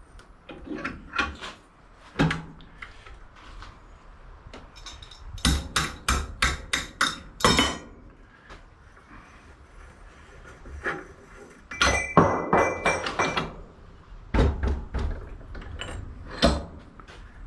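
Pieces of scrap brass knocking and clanking as they are handled, struck and scratched to test the metal. A quick run of about eight strikes comes a third of the way in, and a clatter with a ringing metallic tone comes about two-thirds of the way through.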